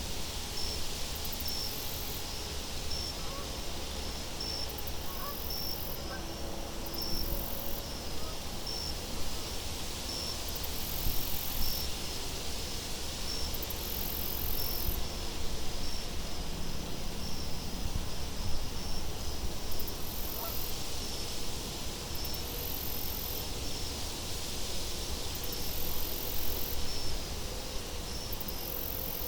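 Steady wind-like hiss with a low rumble under a cricket chirping regularly, a little more than once a second, with higher insect trills coming and going every few seconds.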